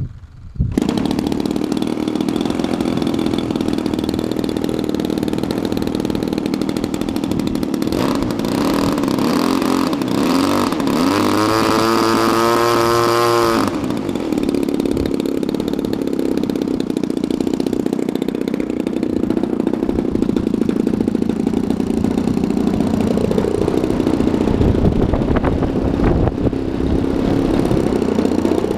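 DLE 35 single-cylinder two-stroke gas engine of a radio-controlled Extra 260 aerobatic plane, running loud and steady. About halfway through a rising whine builds over a couple of seconds and cuts off suddenly. Near the end the pitch swings up and down.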